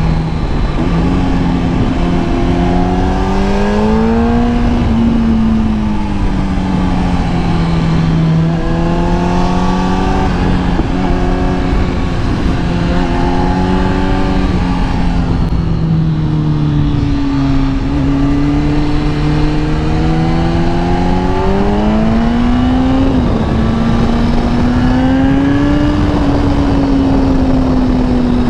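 Kawasaki ZX10R's inline-four engine running on the move. Its revs climb and ease off several times, with a sharper rise a little past three-quarters of the way through. Steady wind noise runs underneath.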